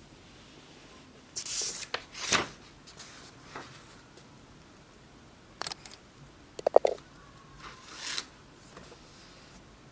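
Small objects being handled close by: a few short rustles and scrapes, and a quick cluster of sharp clicks with a brief rattle a little past the middle.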